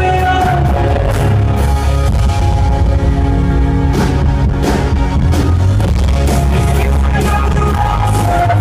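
Live rock band playing loudly, with electric guitar, heavy bass and a drum kit in a dense, steady mix.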